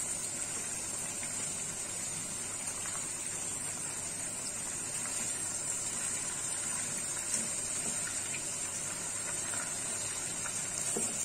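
Chicken pieces sizzling steadily as they fry in hot ghee in a kadai, with now and then a soft scrape as they are turned with a wooden spatula and spoon.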